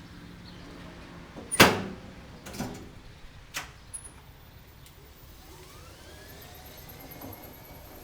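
A loud clunk and a few lighter knocks, then the whine of a 36-volt electric cart's drive motor, rising in pitch as it speeds up and then levelling off.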